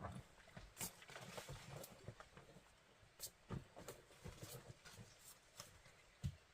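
Faint, irregular knocks and taps, a few each second, with a louder knock about halfway through and another near the end.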